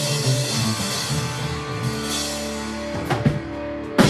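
Live rock band with electric guitar and drum kit playing the instrumental close of a song, ending on two sharp hits about a second apart near the end.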